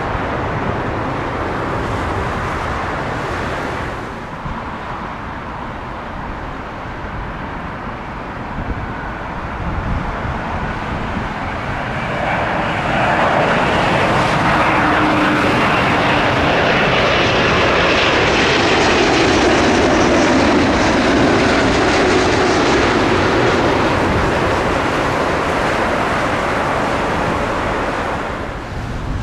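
Jet airliner's engines passing low overhead on approach. The rumble grows louder about halfway through, then a whine slides down in pitch as the aircraft goes by, and the sound fades near the end.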